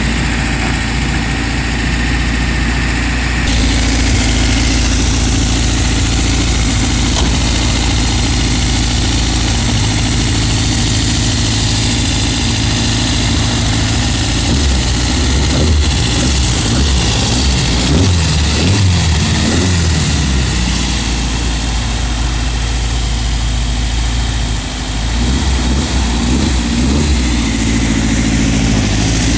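2276 cc street-and-racing engine idling steadily, then revved in a series of quick blips about halfway through and again near the end. It runs through a muffler that the owner says is bad and makes noise.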